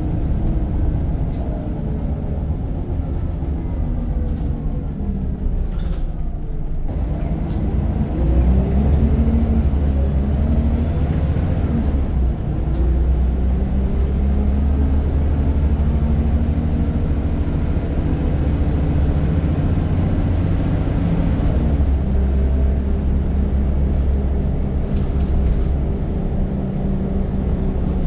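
Scania N94 bus's diesel engine under way: its note falls as the bus slows over the first six seconds, then climbs again as it pulls away and settles into a steady drone, with a faint high whine.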